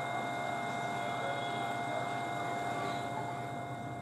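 Steady railway-station ambience as a train's rear coaches move away: a low, even rumble with several steady high-pitched tones over it.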